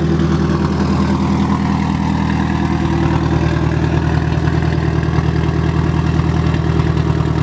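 Nissan S13 240SX engine idling steadily through a straight-through exhaust, its muffler cut off and replaced with a 3-inch blast pipe.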